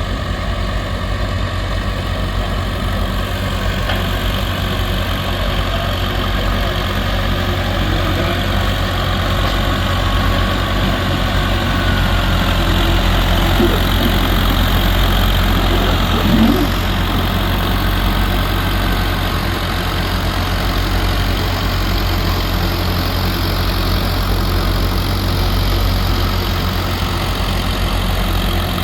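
Antique tractor engine running steadily under load as it pulls, chewing its way along, slightly louder through the middle.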